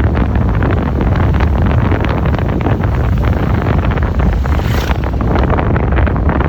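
Wind buffeting the microphone of a moving scooter: a loud, steady rumble with constant gusty crackle, masking the engine and road noise underneath. A brief hiss about two-thirds of the way through.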